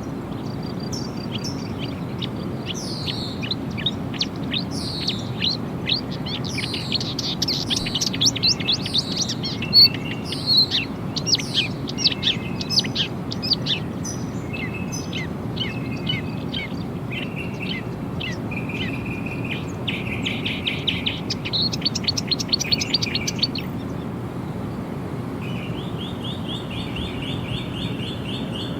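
Several songbirds chirping and trilling, with quick downward-sweeping notes and a fast buzzy trill near the end, over a steady low background rumble.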